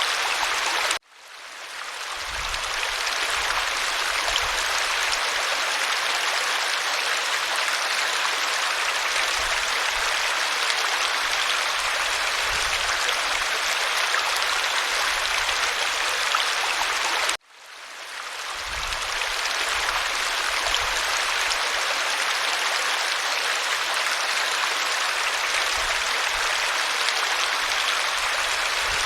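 Waterfall rushing in a steady, even roar of falling water. The sound cuts out abruptly twice, about a second in and again about seventeen seconds in, and each time swells back up within a couple of seconds, as at the seam of a looped recording.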